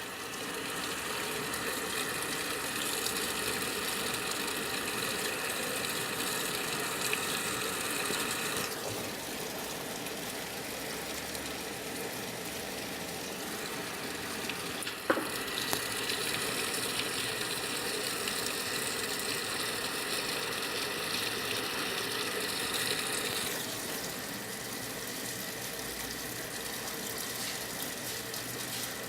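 Brastemp 9 kg washing machine filling with water: a steady rush of water running into the tub. The flow changes in strength a few times, and there is a single sharp click about halfway through.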